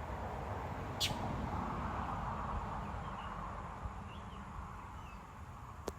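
A few faint, short chirps from a small bird over a steady low rumble and hiss that swells and then fades, with a sharp click about a second in.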